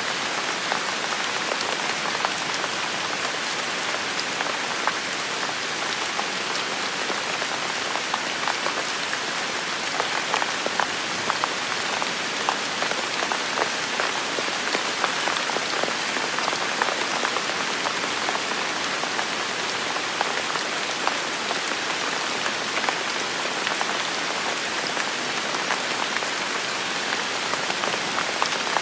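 Steady heavy rain falling, an even hiss with many distinct drops pattering on surfaces.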